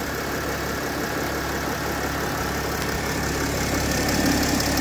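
Mercedes-Benz ML320 engine running steadily at idle, with its whistle fixed.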